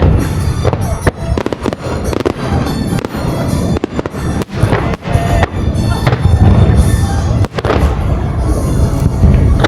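Aerial fireworks bursting in quick succession, deep booms with sharp cracks, with music playing alongside.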